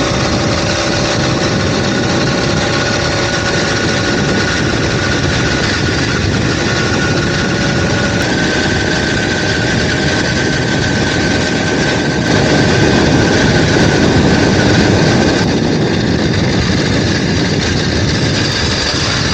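Small 2-stroke motorized bicycle engine running while riding. It holds a steady note, climbs slightly in pitch about eight seconds in, and is louder for a few seconds past the middle.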